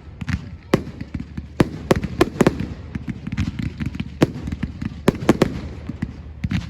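Fireworks display: a rapid, irregular run of sharp bangs and cracks from exploding aerial shells, over a low rumble.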